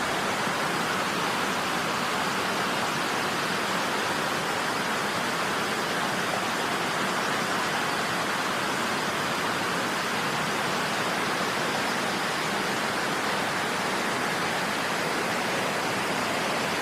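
A steady, even rushing noise that holds one level throughout and cuts off abruptly at the end.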